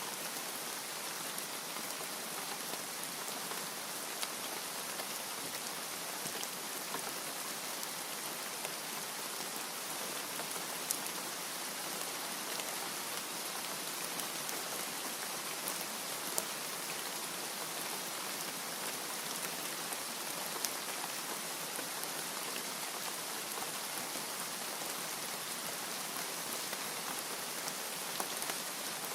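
Steady rain falling, an even hiss with a few sharper drop clicks standing out now and then.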